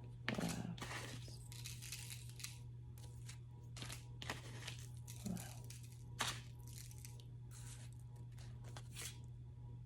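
Tarot cards being handled and shuffled: irregular papery rustling in short spells, loudest about half a second in and again around six seconds, over a steady low hum.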